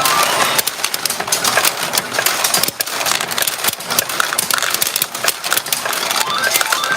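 Retro pachinko machine in play: a dense, continuous clatter of steel balls running through the machine, mixed with short electronic beep sequences, with a rising run of beeps near the end.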